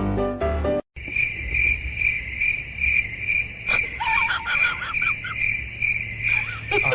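A cricket chirping steadily, a high pulsing trill about two to three chirps a second, after a short bit of piano-like music cuts off just under a second in. A few short squeaky calls sound over it about four seconds in.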